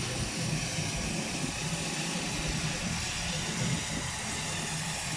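Steady machinery running: a low engine hum under a constant hiss, with no single sound standing out.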